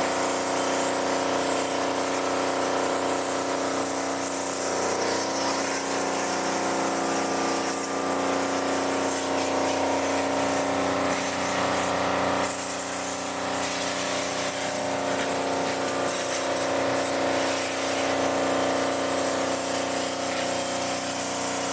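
Car-wash machine's high-pressure pump running steadily with a constant hissing spray from the wand.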